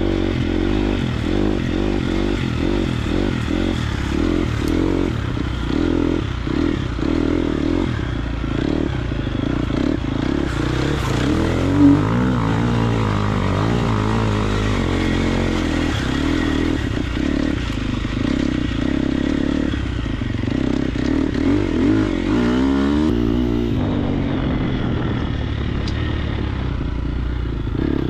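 Triumph TF250X's 249cc single-cylinder four-stroke engine being ridden hard, its pitch rising and falling again and again with the throttle and gear changes. A single sharp knock comes about twelve seconds in.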